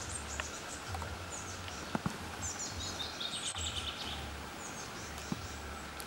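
Small songbirds chirping, with a longer falling run of high notes in the middle, over a low rumble that pulses about once a second.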